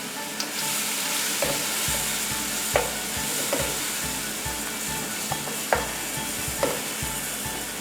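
Sliced onions frying in hot oil in a pan, a steady sizzle, with a spoon stirring and knocking against the pan in a few short clicks.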